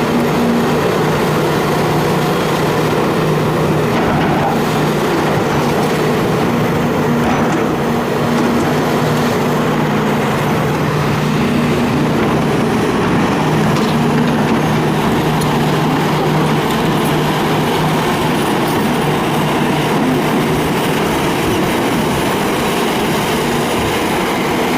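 Hitachi excavator's diesel engine running steadily, with a constant low hum and no distinct hammer blows.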